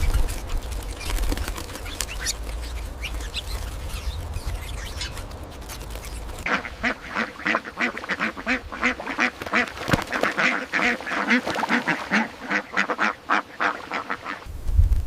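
Ducks quacking in a fast run of short calls, several a second, starting about six seconds in after a stretch of low rumbling noise.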